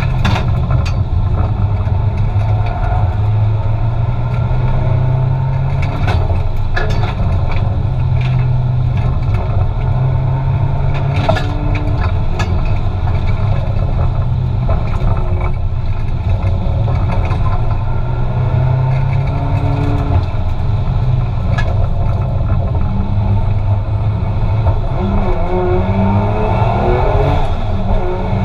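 Turbocharged 2JZ straight-six in a Nissan Silvia S15 with a T78 turbo, heard from inside the cabin, running hard under drift throttle with its pitch rising and falling. Occasional sharp cracks break through, and the revs climb and drop in quick steps near the end.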